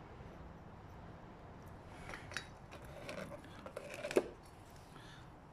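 Light metal clinks and scrapes of two-stroke scooter engine parts being handled and fitted during a top-end rebuild: a run of small knocks starting about two seconds in, the sharpest just after four seconds.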